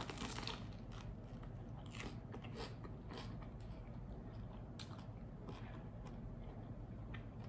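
A person bites into toasted sourdough bread topped with avocado salad, with a sharp crunch right at the start, then chews with scattered crisp crunches.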